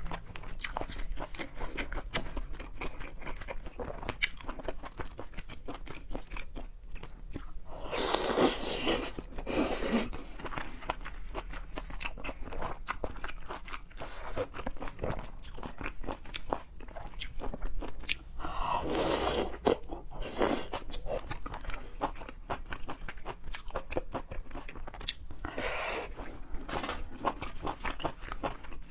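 Close-miked chewing and crunching of seafood, a steady run of small wet clicks and crunches, with louder stretches of crunching about a third of the way in, about two-thirds in and near the end.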